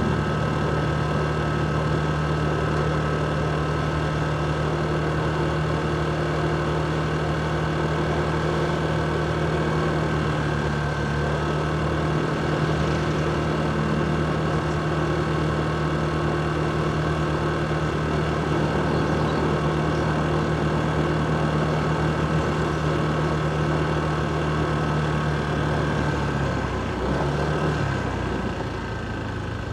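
Motorcycle engine running at a steady pitch, with road and traffic noise; the engine note wavers and shifts near the end as the engine speed changes.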